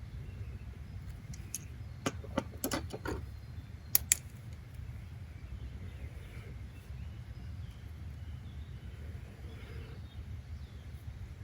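Steady low rumble of background noise. About two seconds in comes a quick run of sharp taps, then two sharp clicks about four seconds in; faint bird chirps follow later.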